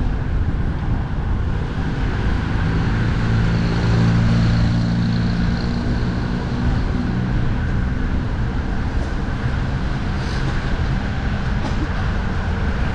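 Expressway traffic rushing past with heavy wind rumble on the microphone; a large vehicle's engine drones by, loudest about three to six seconds in, then fades.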